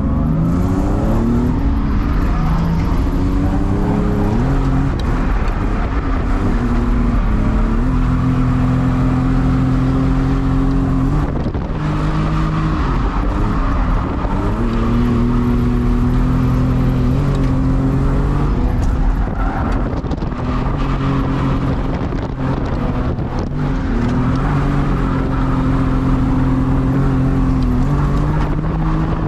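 Drift car engine revving hard on a track lap: the pitch climbs in steps, holds high for several seconds at a time, then drops and climbs again a few times.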